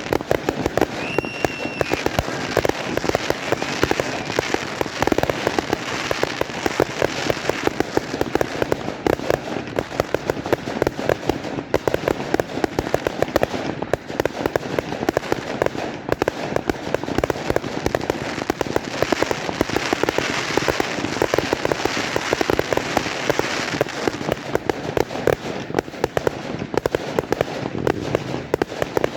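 Fireworks going off in a dense, continuous run of crackling bangs, many a second, with a brief high whistle about a second and a half in.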